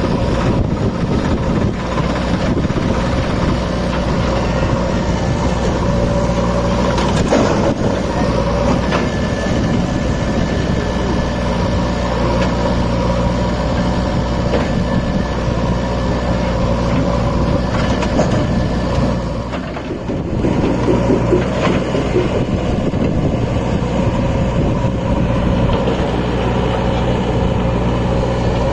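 Tractor diesel engine running steadily under load while pulling a loaded trolley. It dips briefly about two-thirds of the way through, then carries on.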